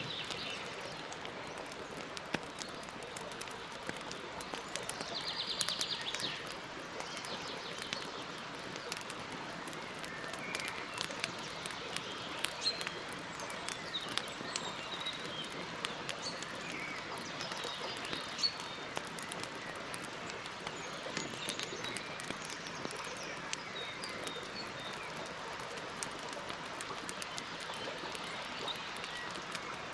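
Campfire crackling, with many scattered sharp pops over a steady hiss, while birds chirp now and then. A short rapid birdlike trill comes about five seconds in and again at the very end.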